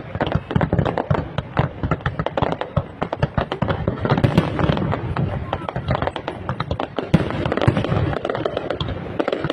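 Dense fireworks display: shells bursting in rapid, overlapping succession, a continuous barrage of bangs and crackles.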